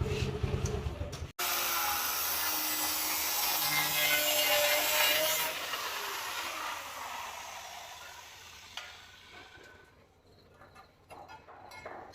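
A Suzuki Gixxer SF's single-cylinder engine runs briefly, then a power tool cuts into the inner pipe of the motorcycle's exhaust silencer. The steady grinding hiss builds for a few seconds, then fades as the tool winds down, with a few light clicks near the end.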